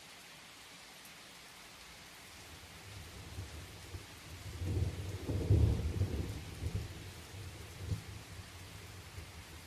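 Steady rain falling, with a roll of thunder that builds about three seconds in, is loudest near the middle and rumbles on more softly to the end.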